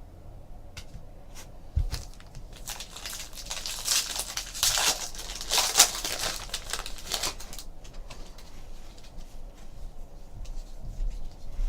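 Foil wrapper of a Bowman baseball card jumbo pack being torn open and crinkled, a few seconds of crackling that peaks in the middle, after a soft thump about two seconds in.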